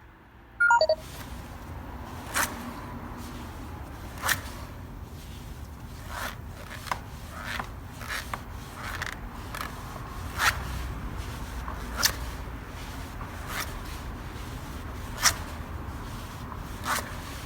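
Honda Giorno AF24 scooter's rear wheel being turned, making an abnormal low rumbling with a sharp click about every one and a half to two seconds, which the owner puts down to a bearing. A short falling squeak sounds about a second in.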